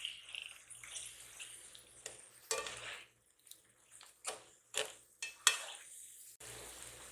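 Kitchen utensils and dishes clinking and clattering: a few soft scrapes, then a run of sharp separate clinks in the middle, the loudest about five and a half seconds in.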